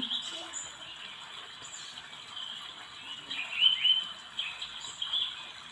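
A small bird chirping in short, quick calls that bend up and down in pitch, with a louder cluster about three and a half seconds in.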